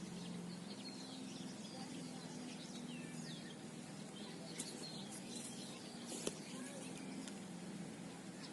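Small birds chirping here and there over a steady low hum, with a faint knock or two about six seconds in.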